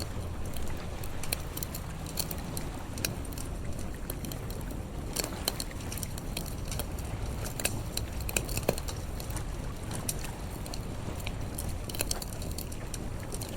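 Wood campfire crackling: irregular sharp pops and snaps, several close together around the middle, over a steady low rumble.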